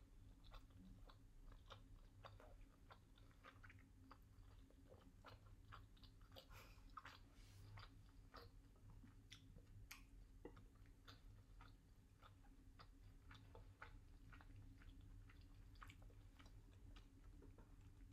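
Faint chewing of a tuna triangle kimbap (rice wrapped in seaweed): a steady run of small soft clicks and crunches, over a low steady hum.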